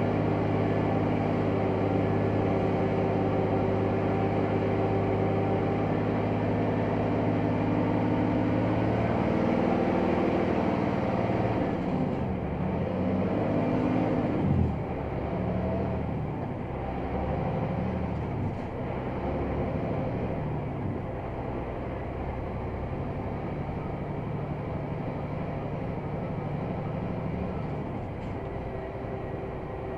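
Diesel engine of a Scania XT G500 8x8 truck working under a heavy load of about 50 tonnes. It holds steady revs at first. About fifteen seconds in its pitch drops sharply, and afterwards the revs rise and fall.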